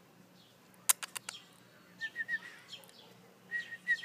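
Rough Collie puppies squeaking and whimpering in short, high, thin peeps, a few at a time, after four quick clicks about a second in.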